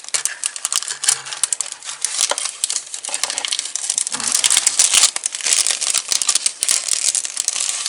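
Plastic packaging and sticker sheets crinkling and rustling as they are handled, with many small crackles and clicks, loudest about four to five seconds in.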